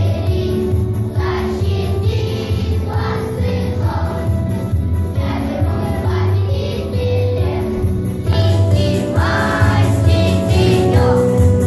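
A children's choir singing in unison over instrumental accompaniment, growing louder about eight seconds in.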